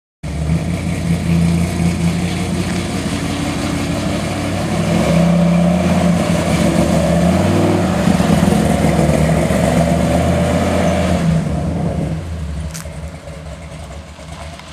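Big-block Chevy V8, a 454 bored and stroked to 496 cubic inches, running through its headers and pipes. It runs louder for several seconds in the middle and drops back to a quieter run about twelve seconds in.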